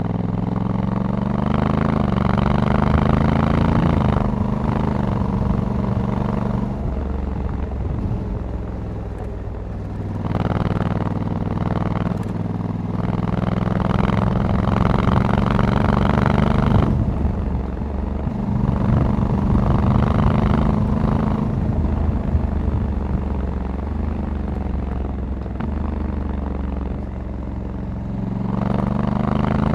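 Honda Africa Twin 1100 DCT's parallel-twin engine under way, its revs climbing and easing off several times as the bike speeds up and slows.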